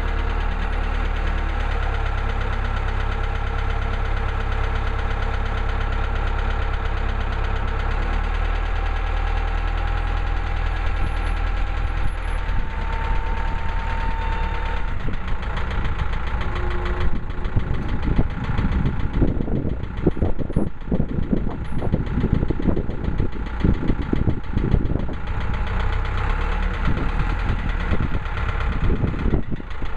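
Engine running steadily, most likely the Woodland Mills HM130 Max sawmill's. About halfway through, an irregular run of knocking and clattering starts over it and keeps going.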